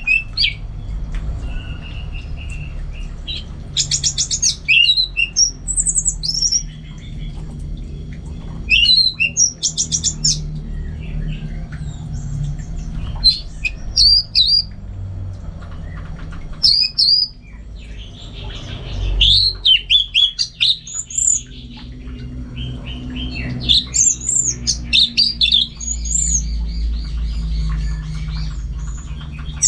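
Orange-headed thrush (anis merah) singing in repeated bursts of varied high whistled phrases with some fast rattling notes, a pause of a second or two between bursts, over a steady low hum.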